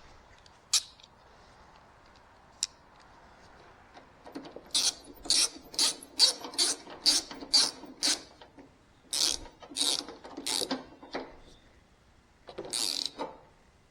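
Hand ratchet wrench tightening a bolt, clicking through short rasping strokes at about two a second, with two single clicks before the run starts.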